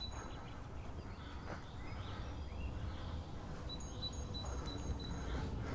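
Steady low outdoor rumble with a small bird calling. It gives a few short, high chirps at the start, then a run of about five, roughly three a second, past the middle.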